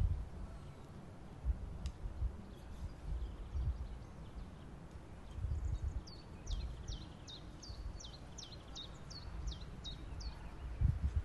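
A songbird sings a run of about a dozen quick falling whistled notes, about three a second, starting about halfway through. A low rumble comes and goes underneath.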